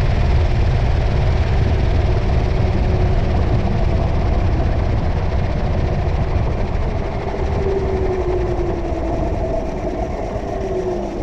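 Washing machine running, heard from inside the drum: a loud, steady, deep rumble. Over the last few seconds a faint whine falls in pitch and the rumble eases a little.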